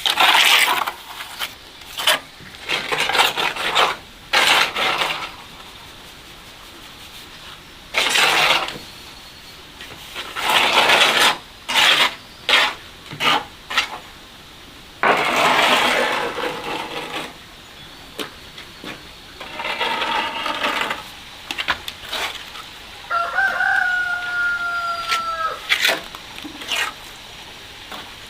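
Rooster crowing once near the end, a single call of about two and a half seconds falling slightly at the close. Before it comes a run of rough scraping strokes, each about a second long.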